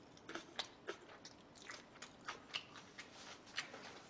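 A person chewing food close to the microphone: irregular short mouth clicks, about three a second.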